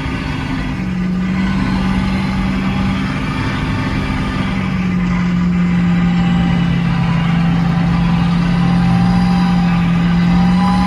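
Inside the roll-caged cab of a twin-turbo Duramax diesel mega truck driving slowly: steady drivetrain and engine noise with a constant low whine from the loud transfer case, dipping slightly in pitch partway through.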